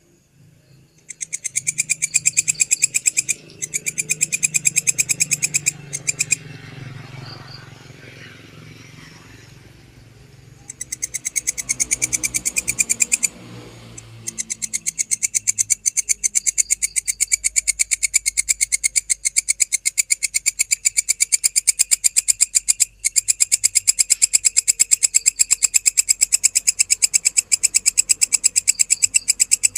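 A belalang, a grasshopper-family insect, stridulating loudly: a fast, buzzing trill of tightly spaced pulses, broken into bursts in the first half and running unbroken from about halfway.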